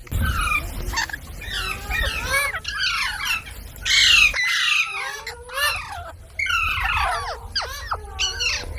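Parrot squawking and chattering in a rapid, unbroken series of short calls that bend up and down in pitch, loudest about four seconds in.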